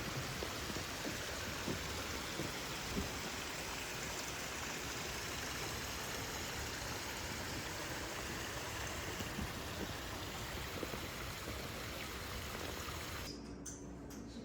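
Steady rushing of water, an even hiss with small patters. It cuts off suddenly near the end, leaving a quieter background with a low hum and a few clicks.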